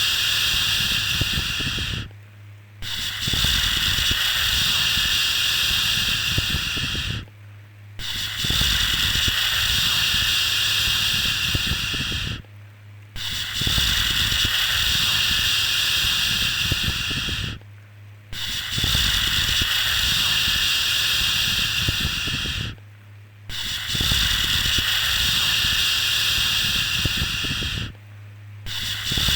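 Repeated long 'shhh' shushing sounds, each held about four and a half seconds and separated by brief pauses of under a second, in an even rhythm of about one every five seconds. A faint steady low hum lies beneath.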